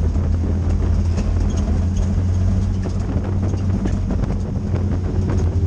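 Front-wheel-drive dirt-track race car's engine running steadily at low revs, a deep even drone with no revving up or down.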